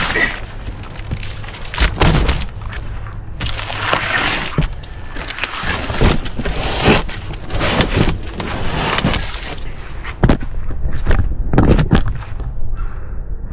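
Large, heavy cardboard box holding a recliner being dragged and bumped along, with scraping and a series of knocks and thuds.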